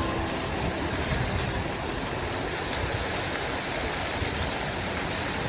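Steady rain ambience: an even, dense hiss of falling rain with a low rumble beneath it. Soft music notes fade out just after the start.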